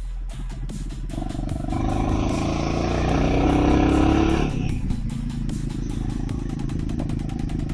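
Royal Enfield Himalayan 450's single-cylinder engine and exhaust accelerating, the note rising in pitch and getting louder for about three seconds. It then drops off suddenly as the throttle closes and settles back to steady running.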